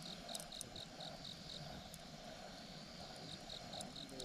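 Insect chirping in a steady high pulse train, about four chirps a second, breaking off in the middle and starting again near the end. A few faint sharp crackles from the campfire.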